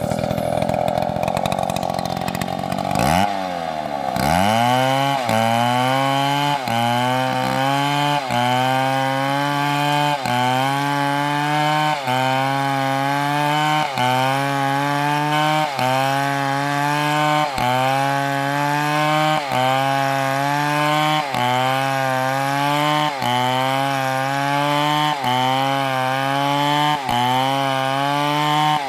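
Big two-stroke chainsaw at full throttle. About three seconds in the note drops, and from about four seconds on it is cutting wood: the engine pitch sags and recovers about every two seconds as the saw bogs under load and is worked through the cut.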